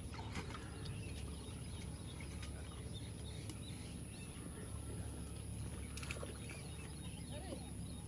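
Sonalika DI 745 tractor's diesel engine running steadily at a low, even rumble.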